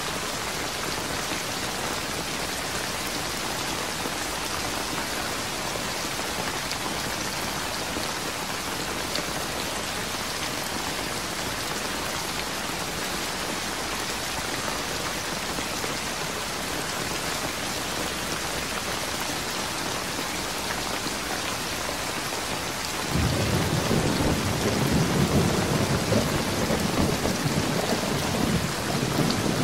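Steady heavy rain falling and pattering on surfaces. About 23 seconds in, a low rumble sets in suddenly under the rain and stays loud to the end.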